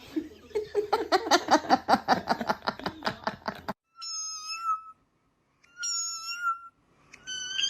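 A cat letting out a rapid run of short meows, about four or five a second, for roughly three and a half seconds, followed by three separate steady high-pitched tones.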